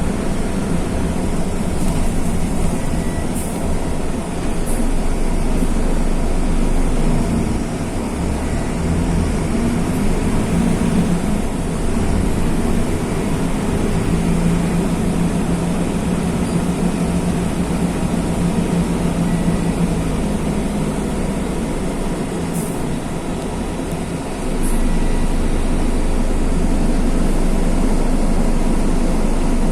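Mercedes-Benz OF-1519 bus's OM-924 LA four-cylinder turbodiesel running under way, its note shifting with throttle and gears through the manual gearbox. The engine eases off a little over two seconds, then grows louder again about 25 seconds in.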